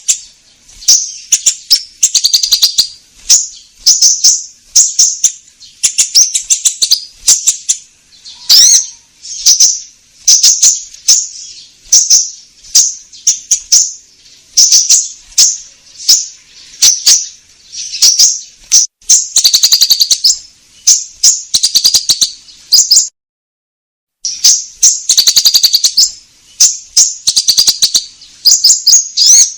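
Konin songbird singing gacor: a loud, high chirping song in short, rapid phrases repeated about once or twice a second, with a full break of about a second roughly two-thirds of the way through.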